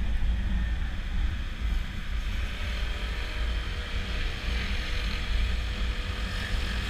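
Wind buffeting the microphone of a moving Honda PCX scooter, over steady road noise and the faint even hum of the scooter's engine at cruising speed.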